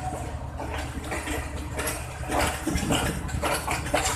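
Pakistan Railways passenger coach of the Tezgam Express rolling slowly, its running gear making a steady low rumble under irregular metallic clanks and rattles that come thicker from about halfway through.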